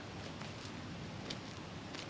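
Steady outdoor background noise with a few faint, short high-pitched ticks, the sharpest about a second and a half in.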